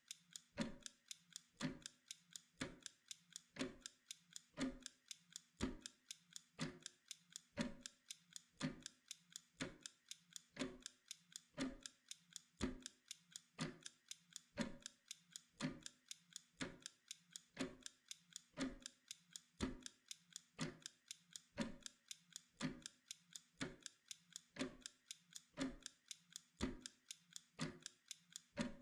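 Steady clock-like ticking of a timer: an even run of small mechanical ticks, several a second, with a stronger, deeper tick about once a second.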